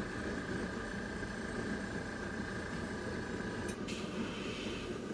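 Small airbrush compressor running with a steady hum. Near the end there is a click, then about a second of hissing air from the airbrush.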